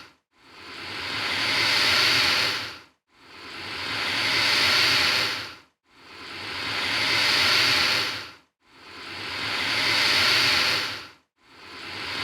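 Alligator hissing: a long breathy hiss that swells and then fades, repeated about every three seconds with a brief silence between, four full hisses and the start of a fifth near the end.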